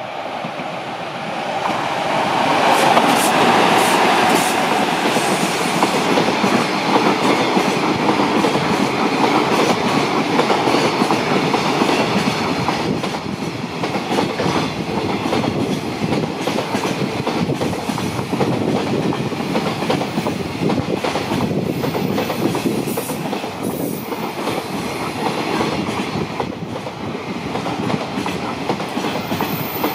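A freight train passes: the EF66 electric locomotive comes by first, with the noise swelling to its loudest about three seconds in. A long string of container flat wagons follows, their wheels clicking steadily over the rail joints.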